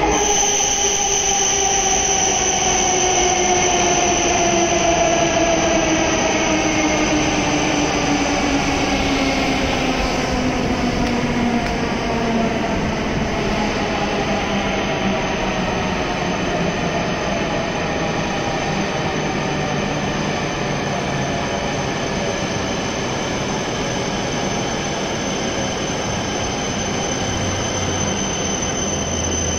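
E7-series Shinkansen train rolling in along the platform and slowing to a stop: a loud continuous rush of the passing cars, with the traction motors' whine sliding steadily down in pitch over the first dozen seconds as the train brakes, then levelling off low. A steady high-pitched tone runs underneath throughout.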